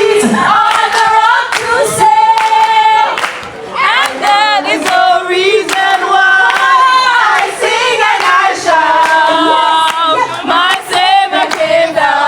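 A singer performing a song loudly, with long held notes that waver in vibrato.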